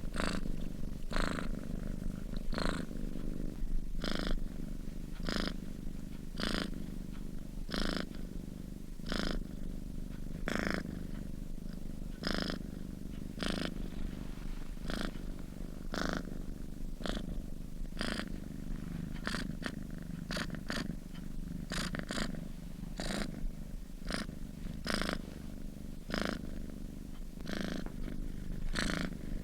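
A sleeping domestic cat purring steadily. The purr swells in regular pulses with each breath, roughly every second and a half, coming a little faster near the end.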